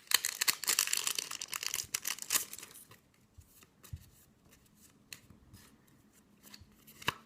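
A Yu-Gi-Oh booster pack's foil wrapper crinkling and tearing as it is opened, for about three seconds. Then quieter handling of the cards, with a few light clicks and one sharper click near the end.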